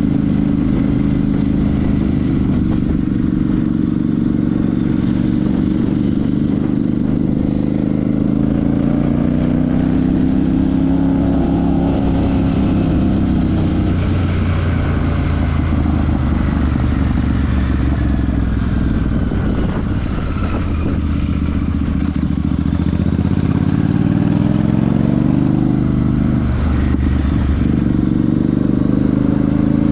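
Royal Enfield Super Meteor 650's 648 cc parallel-twin engine and exhaust heard from the bike under way. The pitch rises and falls as the rider accelerates, eases off and changes gear, with breaks in the note around halfway and again near the end, and wind and road noise underneath.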